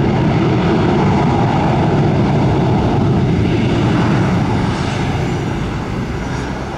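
Airliner jet engines running loud and close, a heavy steady roar that fades over the last couple of seconds as the aircraft moves away, with a faint high whine near the end.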